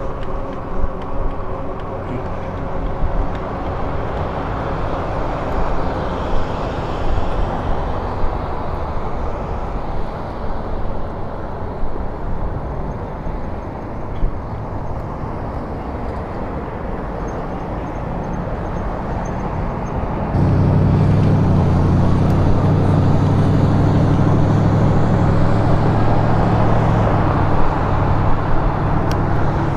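Steady wind and road noise from riding an electric bike, rushing across the microphone. About two-thirds of the way through it steps up suddenly into a louder, low humming rumble that holds on.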